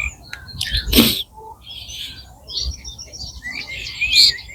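Dawn chorus of small birds chirping and calling, over a low rumble, with one brief louder sound about a second in.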